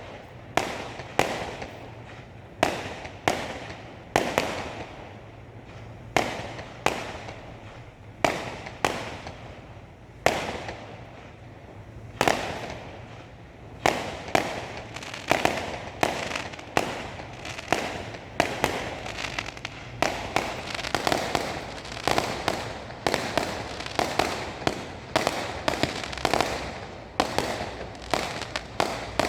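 Fireworks exploding, sharp bangs each followed by an echo and crackle, at first a second or so apart, then coming thick and fast from about halfway through.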